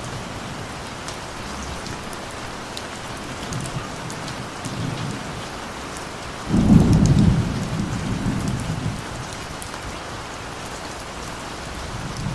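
Steady rainfall with small drops pattering, and a roll of thunder that breaks in suddenly about halfway through and rumbles away over a few seconds.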